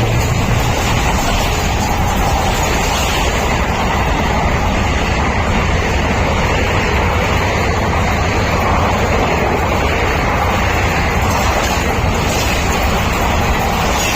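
Diesel-hauled passenger train running past close by, a loud, steady rumble of wheels on rails that holds level throughout. A low hum fades out in the first moments.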